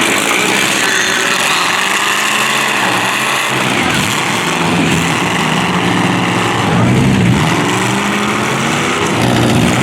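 Demolition derby cars' engines revving, their pitch rising and falling in a continuous loud din.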